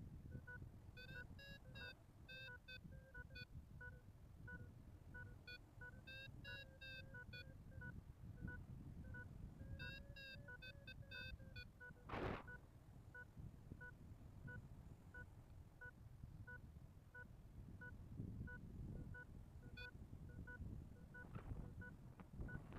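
Paragliding variometer beeping faintly: a steady run of short electronic beeps, with clusters of quicker, higher beeps every few seconds. Wind rumbles on the microphone underneath, with one brief loud gust about twelve seconds in.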